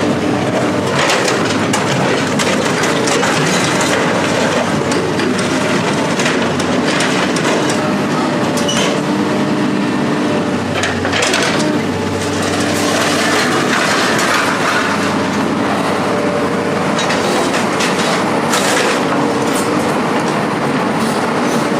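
Heavy machine engine running steadily under a constant stream of scrap metal crunching, cracking and clanking.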